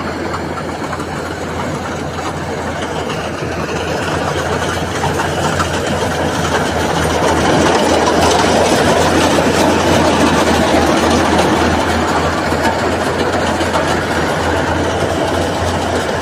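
Rice combine harvester running in the paddy, its engine and threshing machinery making a steady, loud drone. It grows louder over the first eight seconds or so, then eases slightly near the end.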